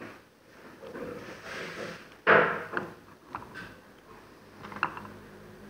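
Handling noise from a repair on a work surface: one loud knock about two seconds in, followed by a few small clicks.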